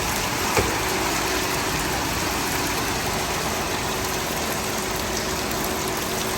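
Vehicle engine running steadily under a constant hiss, with one brief knock about half a second in.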